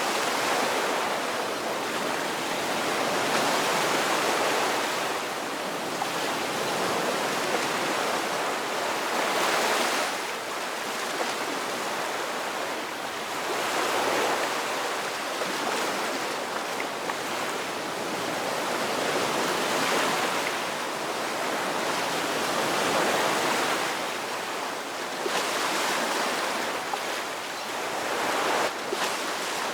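Ocean waves breaking and washing onto a shore, a continuous surf that swells and eases every few seconds.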